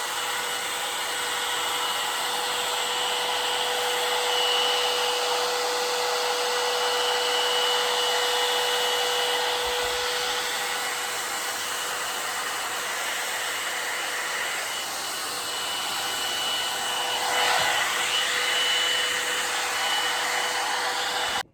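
Combing hair dryer running steadily, blowing hot air with a steady hum and a thin high whine over the rush of air, then switched off abruptly at the end.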